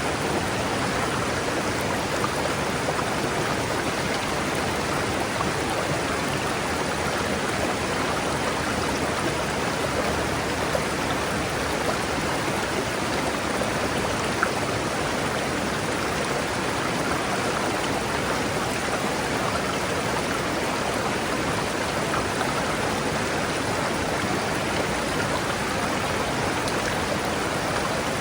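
A forest river rushing steadily over rocks, an even splashing rush of water with a few faint splash ticks.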